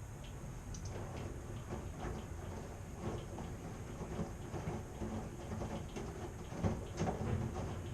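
Washing machine running: a steady low hum with irregular knocks and clatter as the drum turns the load, a few louder knocks near the end.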